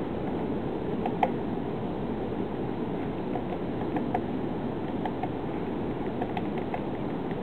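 A woodpecker pecking at tree bark while it forages: scattered short taps, often in pairs, the sharpest about a second in. A steady low background noise runs under them.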